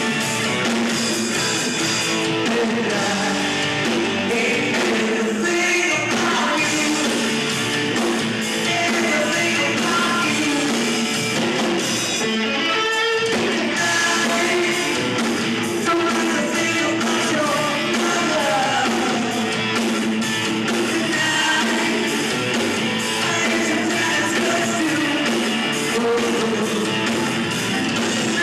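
Rock band playing live, with electric guitar and singing.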